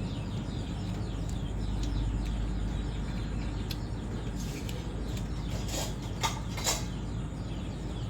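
Small birds chirping repeatedly over a steady low rumble of wind on the microphone, with a few short sharp clacks and rustles around six seconds in.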